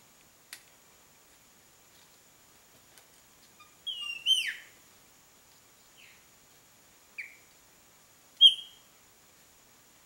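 Short, high, downslurred bird chirps: a quick cluster of several about four seconds in, then three single calls spread over the next few seconds, the last the loudest. A single sharp click comes shortly before, over a faint steady high-pitched tone.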